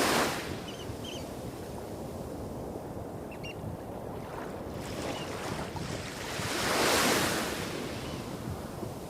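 Small waves breaking and washing up the shore, one right at the start and another about seven seconds in, over a steady low rumble of bigger waves hitting rocks some way off. A few faint, short high chirps about one and three seconds in.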